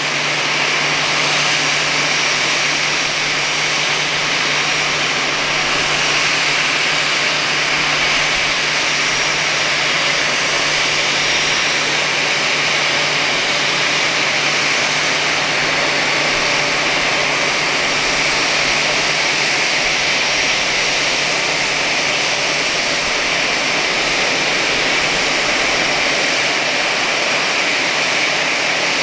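Steady jet noise from an Airbus A320: a loud, even rushing hiss, with a low hum underneath that fades out about halfway through.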